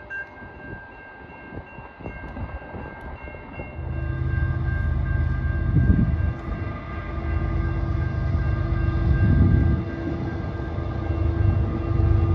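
Diesel train at close range: faint steady ringing at first, then from about four seconds in a loud, low locomotive engine rumble as the train comes by.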